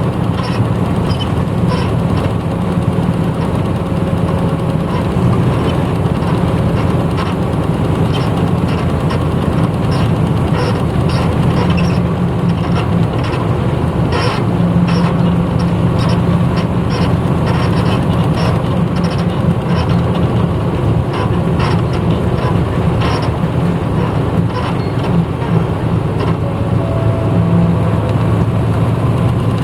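Diesel engine of a 1994 Hino Blue Ribbon city bus running under way, heard from inside the cabin, with road noise and frequent small interior rattles.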